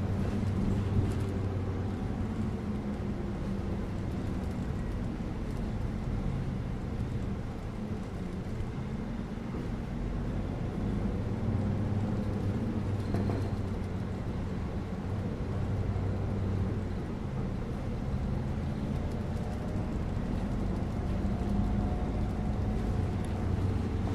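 Bus in motion: a steady low engine hum that wavers a little as engine speed shifts, over continuous road and tyre noise.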